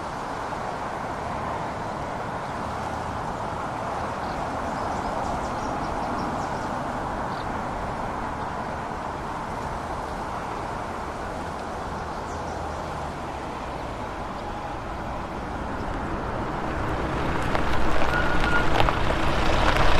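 Steady outdoor noise, then a motor vehicle approaching and growing louder over the last few seconds.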